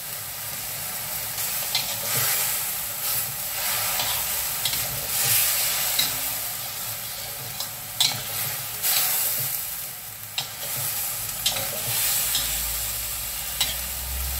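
Meat and tempeh sizzling as they stir-fry in a stainless steel wok, with a metal spatula scraping the pan and clinking against it every second or two.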